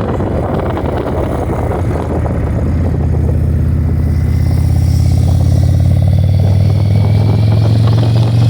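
Motorcycle engine running, with wind rushing over the microphone. About three seconds in, the wind noise fades and the engine settles into a steady, low, deep note.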